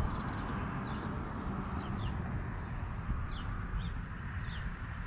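Small birds chirping in short, falling notes, often in pairs, about once a second, over a steady low rumble.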